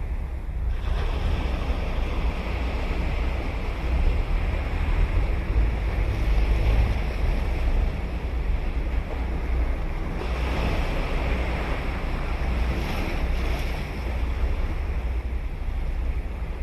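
Ocean surf breaking on a sandy beach: waves wash in with a rush about a second in and again about ten seconds in. Wind on the microphone adds a low rumble.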